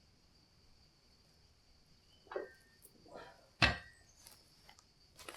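Steady high chirring of insects, with a few scattered light knocks and one heavier thud about three and a half seconds in.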